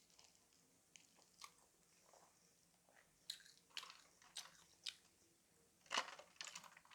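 A person chewing crunchy fried chicken: a run of sharp, irregular crunches, the loudest about six seconds in.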